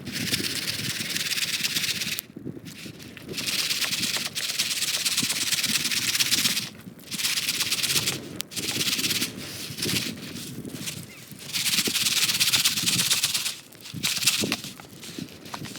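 A popcorn pan shaken over a campfire in repeated bursts of a second or two with short pauses between, its kernels giving a hissing rattle.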